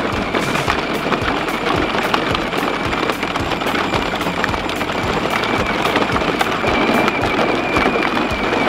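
Toy riding tractor driving along, its wheels crunching over rough ground in a dense crackle of small clicks, with a steady high whine over it.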